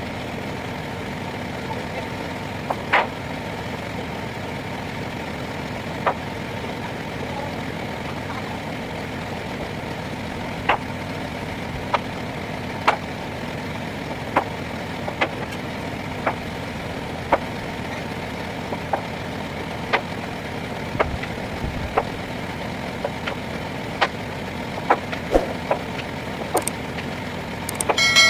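Lorry engine idling steadily, with sharp knocks and clanks at irregular intervals from building materials being unloaded. Near the end comes a louder clank that rings on briefly, like struck metal.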